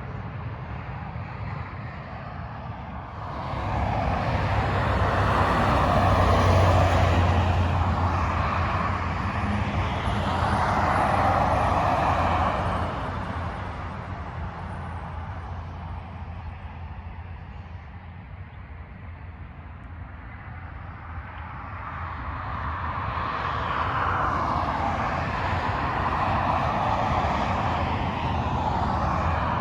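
Freeway traffic passing at highway speed: tyre roar and engine drone swell as vehicles go by, peaking twice, with a lull in between.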